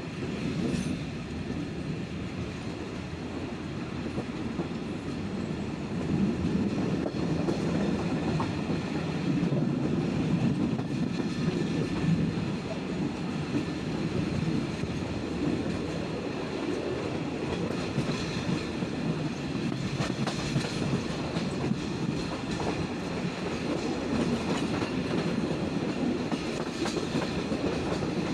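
Passenger train rolling along the track, heard through an open carriage window: a steady rumble of wheels on rails with clickety-clack over the rail joints.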